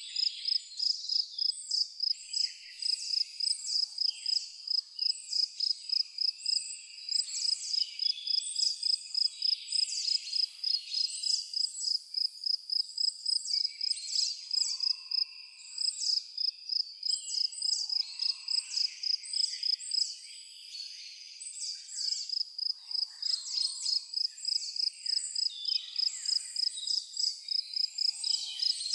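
Crickets chirping in a steady high-pitched rhythm, about three chirps a second, with a short pause about two-thirds of the way through. Birds sing and call intermittently beneath the chirping.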